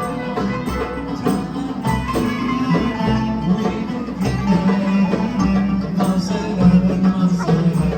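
Live ensemble music played on plucked string instruments, with a steady rhythmic pulse and a sustained low melody line.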